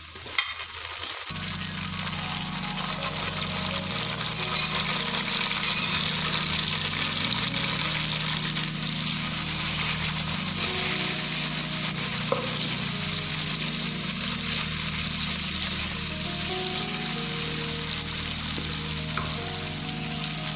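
Chopped tomatoes frying in hot oil with browned onions and ginger-garlic paste, a steady sizzle with a wooden spatula stirring through it. The sizzle grows louder about a second in as the wet tomatoes land in the oil.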